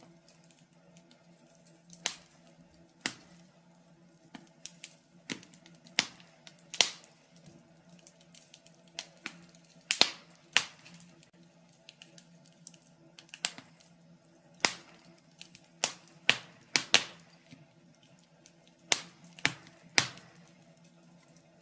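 Wood fire in a fireplace crackling: irregular sharp pops at about one a second, a few of them much louder than the rest, over a faint steady hum.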